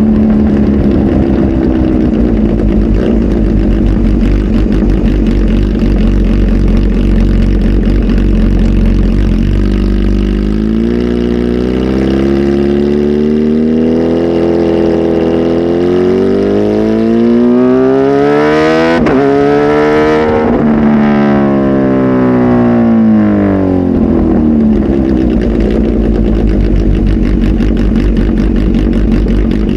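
Kawasaki Z H2 SE's supercharged inline-four, flash-tuned with a full exhaust, idling. About ten seconds in it is revved slowly up over several seconds, then eased back down to idle.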